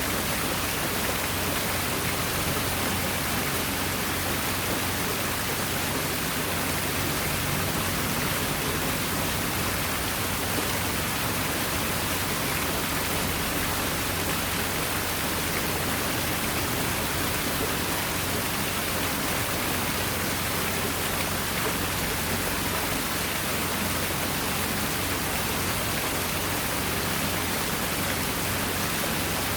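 Water falling steadily over an artificial rock waterfall: an even, unchanging splash and hiss.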